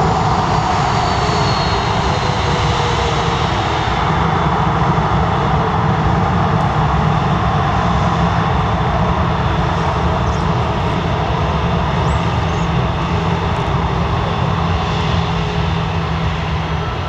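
Jet airliner's engines passing close by: a loud, steady jet noise with a faint whine that slides down in pitch over the first few seconds, easing slightly near the end.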